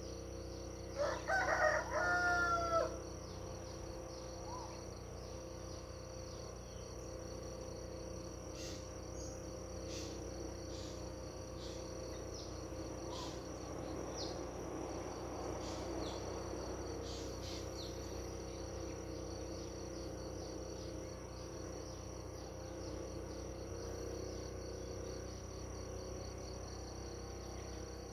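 A rooster crows once, about a second in, a pitched call lasting about two seconds. Under it runs a steady high-pitched insect trill, with a few brief bird chirps.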